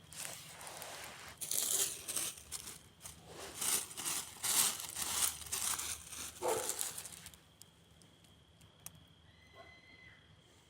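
Dry material crumpling and crackling as it is handled close to the microphone: a dense run of rustles and sharp crackles for about seven seconds, which then dies away.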